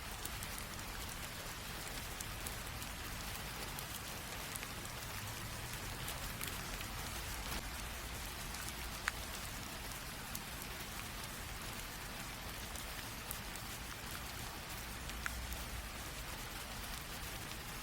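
Light rain falling steadily, a soft even hiss with scattered individual drops ticking on a surface, a couple of them sharper about nine and fifteen seconds in.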